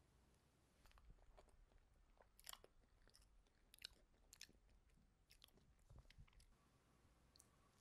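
Faint chewing of a bite of tiramisu cake: a scatter of small soft mouth clicks and smacks, starting about a second in and stopping after about six and a half seconds.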